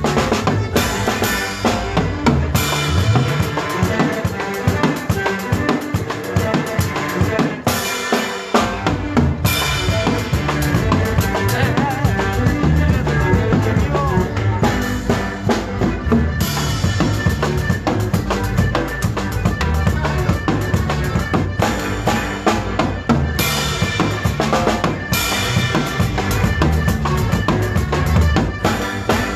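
Live Mexican conjunto band playing an instrumental zapateado, with a steady, driving drum kit beat.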